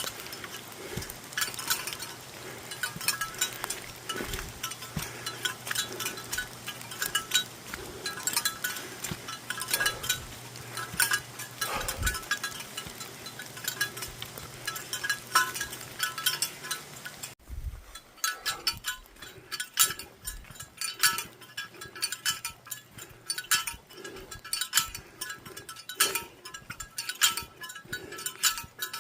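Bear bells jingling continuously as the wearer walks, small metal bells clinking with each stride.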